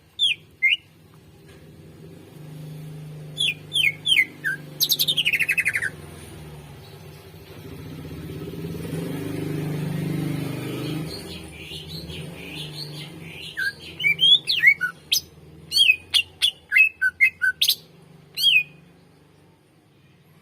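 Cucak ijo (green leafbird) singing: sharp down-slurred whistled notes, then a fast descending trill about five seconds in, and a quick run of sharp chirps toward the end. A low hum swells beneath the song in the middle.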